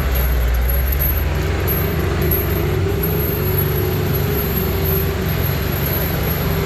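Heavy truck engines running steadily with a deep low rumble and a faint steady whine, as a truck is readied to be towed up a steep climb.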